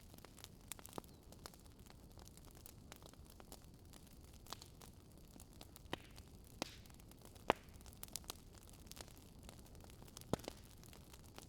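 Wood fire crackling: irregular sharp pops and snaps, a dozen or so, over a faint steady hiss.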